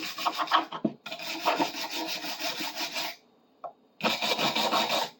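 Dried glue being scraped off a bar clamp with a hand tool: quick rasping strokes in three bouts, with a pause about three seconds in.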